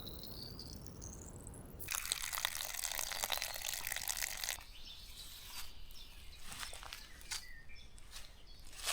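Water running into a bottle as it is refilled, starting about two seconds in and cutting off abruptly a couple of seconds later, followed by quieter clicks of handling.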